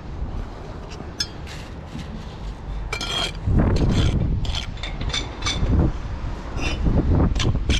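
Bricklaying tools at work: a steel trowel clinking and tapping against bricks and mortar, a dozen or so short ringing clinks at uneven intervals, over a low rumble.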